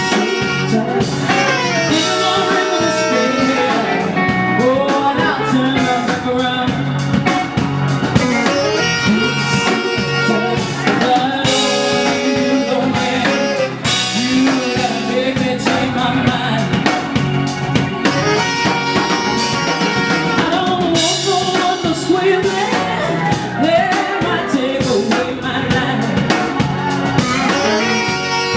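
Live blues band playing with a drum kit, with singing over it.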